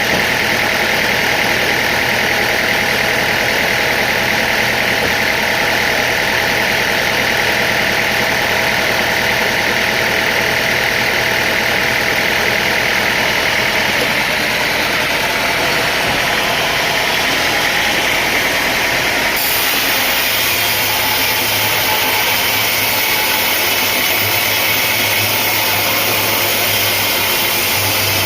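Heavy sawmill machinery running steadily, a loud, even mechanical drone. About 19 seconds in, the sound changes abruptly and gains more hiss up high.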